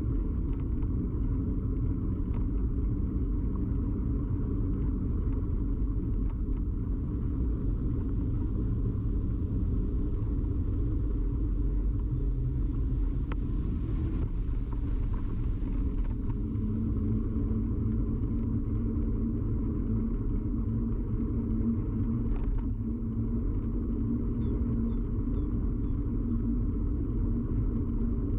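Steady low rumble of a bicycle ride picked up by a camera rigidly mounted on the bike: tyre and frame vibration carried straight into the camera. About halfway through a steady hum joins in, and a few faint short chirps come near the end.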